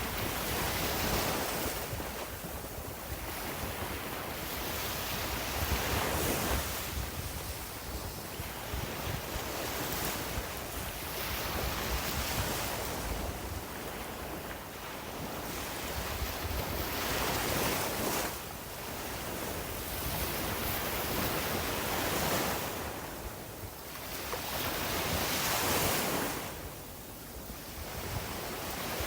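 Sea waves breaking and washing up a beach, the surf swelling and ebbing every few seconds, with wind rumbling on the microphone.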